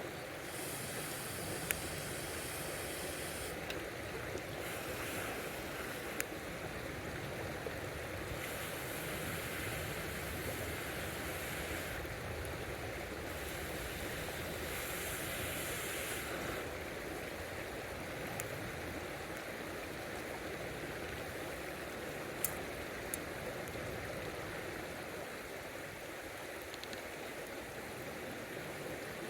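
River water flowing steadily, with a few single sharp clicks.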